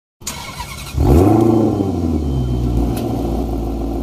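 Maserati Levante SUV's engine revving up sharply about a second in, then running loud at a fairly steady pitch under acceleration.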